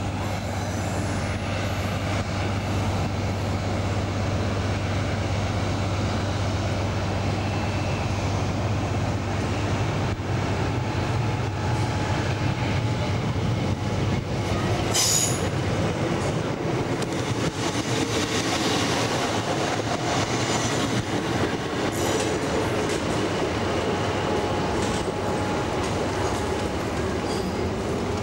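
Diesel passenger train running on the rails, with a steady engine hum and rail noise. A brief high-pitched wheel squeal comes about fifteen seconds in.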